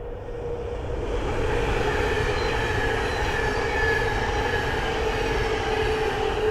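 Thameslink Class 700 electric multiple unit passing, its wheels and rails rushing louder over the first couple of seconds, with a steady whine running through it.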